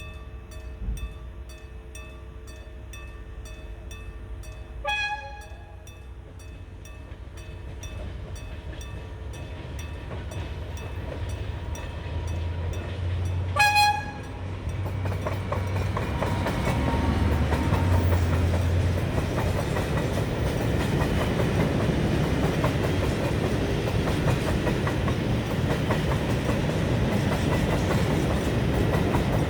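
ŽFBH 212-184 locomotive hauling a freight train and sounding two short horn blasts as a salute, the second louder, about five and about thirteen seconds in. The train then passes close by with a low engine rumble and the steady, growing rumble and clatter of freight wagons on the rails.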